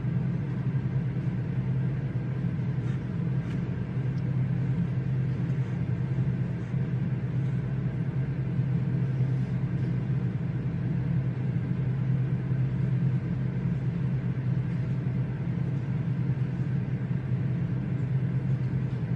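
Steady low hum of a library reading room's ambience, with a few faint light ticks now and then.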